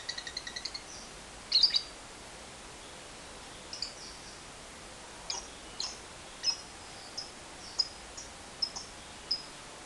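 Lovebird finishing a fast rattling trill (ngekek) in the first second, then a loud harsh call and a run of short sharp chirps, about one every half second to second.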